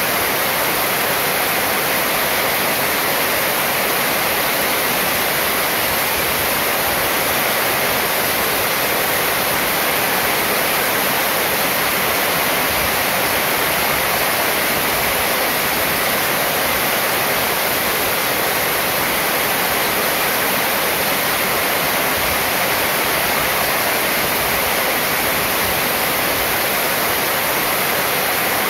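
Heavy rain pouring steadily onto a corrugated metal roof, a dense, even hiss with no breaks or single strikes.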